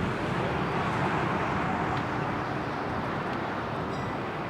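Jet airliner engine noise: a steady broad rush that eases off slightly over the seconds.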